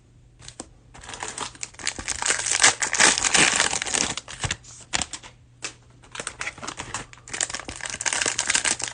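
Plastic packaging crinkling and rustling as it is handled, in stretches, starting about a second in with a short pause in the middle.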